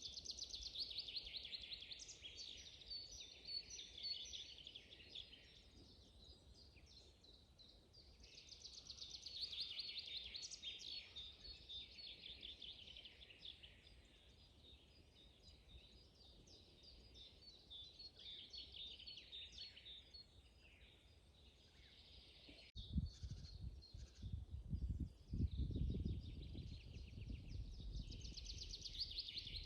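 Songbirds singing in a spring forest, with rapid trilled phrases repeating every several seconds over a faint background. About three-quarters of the way through, a low rumble with several thumps starts and becomes the loudest sound.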